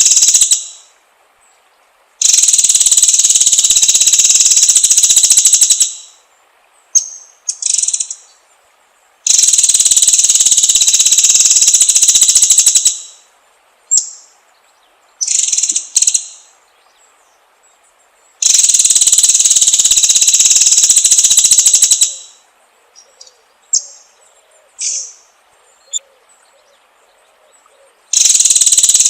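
Songbird training recording: four loud, dense buzzing trills of about three and a half seconds each, repeating roughly every eight or nine seconds, with short sharp chirps in the gaps between them.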